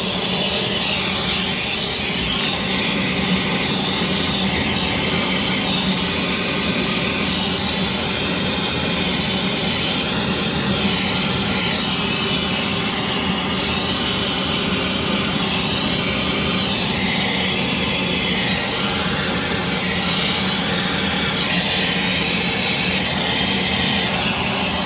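Vacuum cleaner running steadily, its pitch wavering slightly as it sucks dust off refrigerator condenser coils.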